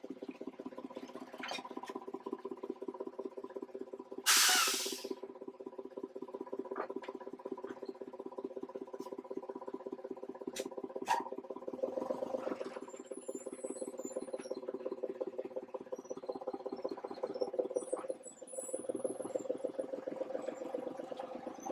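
Class 31 diesel-electric locomotive's engine running steadily with a fast, even throb. About four seconds in there is a short, loud hiss of air, with a few sharp clicks later. The engine sound dips briefly near the end.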